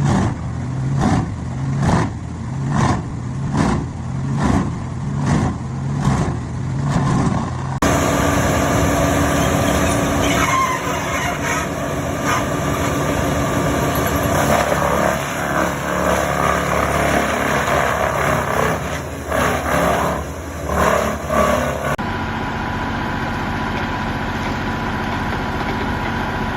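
Large industrial wood chipper at work. It pulses heavily about once a second, then gives a dense crackling grind as wood is chipped, and ends on steady engine running.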